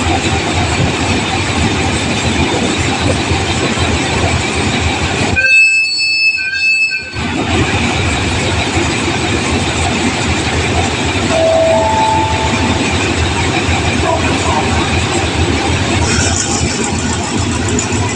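A train running through the station with a steady, loud rumble of wheels and engine. About five and a half seconds in, a high, multi-tone horn sounds for about a second and a half.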